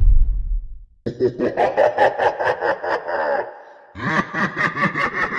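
The low rumble of an explosion effect dies away. About a second in, a person starts laughing in quick rhythmic 'ha-ha' pulses, and a second laughing clip follows after a short pause.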